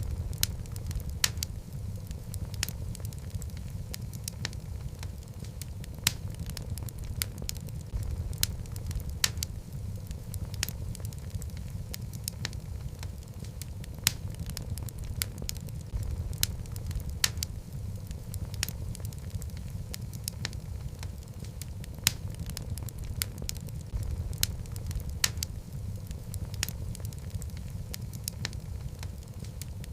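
Wood logs burning in a fireplace: a steady low rumble of flames with frequent, irregular sharp crackles and pops, a few louder than the rest.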